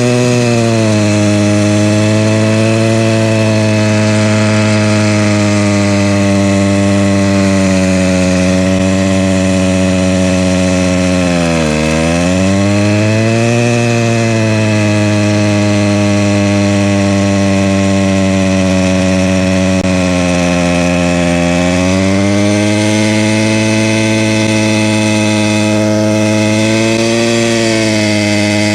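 Motorized bicycle's small single-cylinder engine held at high revs, with a steady buzzing note. The revs drop sharply near the middle and sag again later before climbing back. The engine is being run hard until it is burning hot and smoking.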